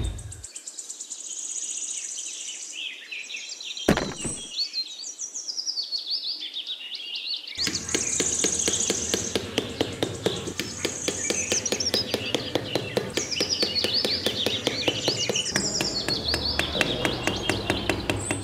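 Birds chirping and tweeting in many short calls, with one sharp knock about four seconds in. From about halfway, a rapid, even clicking and a low hum join the birdsong.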